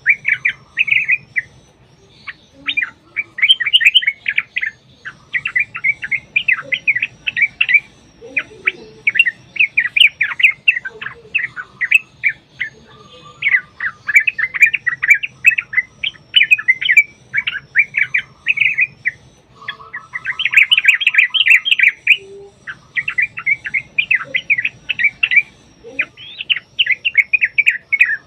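Yellow-vented bulbul (trucuk) singing long, rapid runs of bubbling chirps, phrase after phrase with only short breaks between them.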